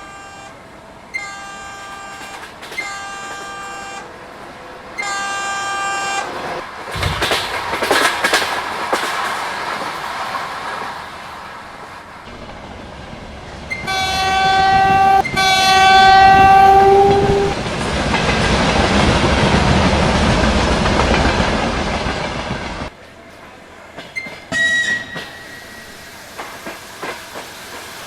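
Train horn sounding several short toots, then two longer, louder blasts about 14 seconds in. The train then runs past with wheel and running noise that cuts off abruptly about 23 seconds in.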